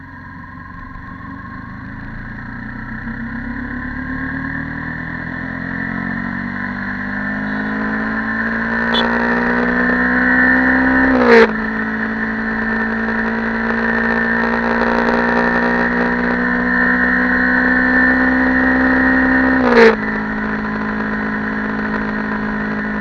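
Yamaha YZF-R15 V2.0 with its stock exhaust, its single-cylinder four-stroke engine accelerating under load. The engine note climbs steadily in pitch and loudness, then drops sharply with a brief loud blip about 11 seconds in and again about 20 seconds in: two upshifts.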